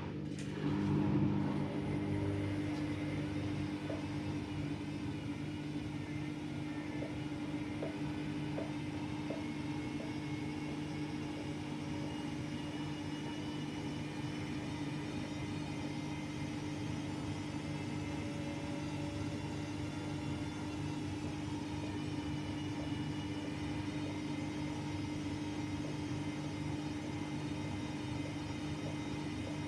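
AEG Lavamat Turbo washer-dryer running with a steady motor hum, with a few faint ticks a few seconds in.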